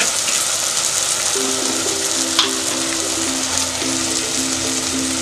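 Onion and tomato masala sizzling in hot oil in a pot, a steady frying hiss. Soft background music comes in about a second and a half in, and there is a single click a little after two seconds.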